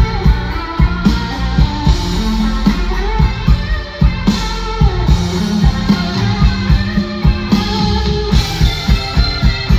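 Rock band playing live through an instrumental passage: guitars over a drum kit keeping a steady beat.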